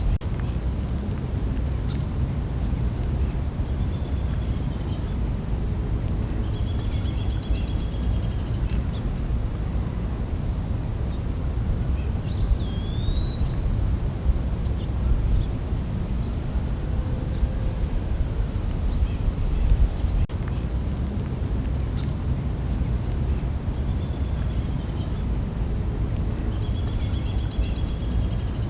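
Night forest ambience: insects keep up a steady high drone and rapid, regular cricket-like chirping, while a bird calls a few short phrases now and then, over a constant low rumble.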